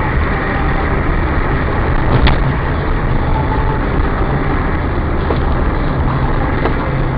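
Steady engine and road noise of a moving car, with a single sharp knock about two seconds in.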